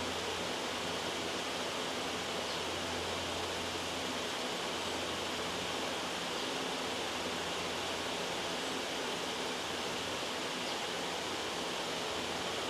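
Loud, steady white noise: an even, unbroken hiss like rushing water.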